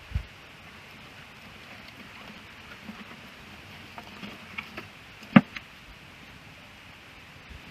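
Wood fire burning with a steady hiss and a few sharp crackling pops in its second half, the loudest about five seconds in. A dull low thump right at the start.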